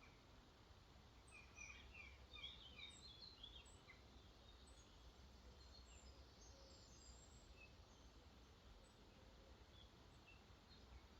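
Faint birdsong: a quick run of short, falling chirps a couple of seconds in, then scattered high chirps thinning out, over a faint steady background hiss and low rumble.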